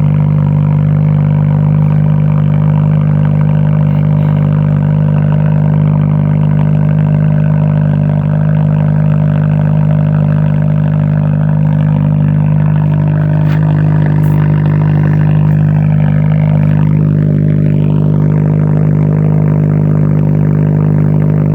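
A vehicle's engine running steadily through its exhaust: a loud, deep, unchanging drone held at a constant pitch.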